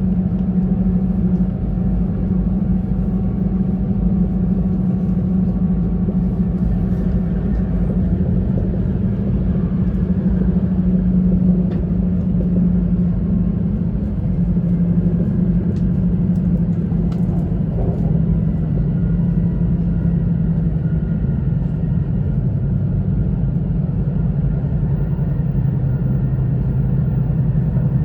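Running noise inside an E2 series Shinkansen car: a steady rumble with a low hum whose pitch slowly drops through the second half.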